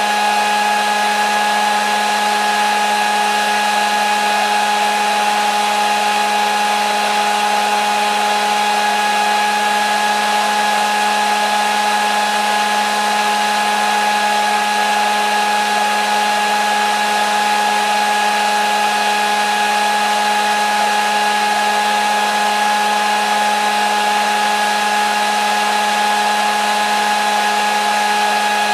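Hair dryer running steadily: a constant rush of blown air with an even motor whine on top.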